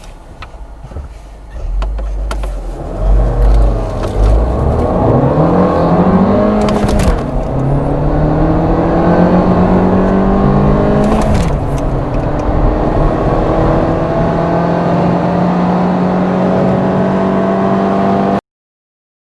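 Volkswagen TSI turbocharged four-cylinder petrol engine accelerating hard from a standstill. The revs climb and drop back sharply at two upshifts, then hold a nearly steady pitch before the sound cuts off suddenly near the end.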